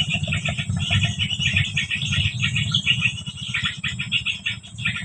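Dense, rapid high chirping of small birds, with a steady high insect-like whine and a busy low rumble beneath.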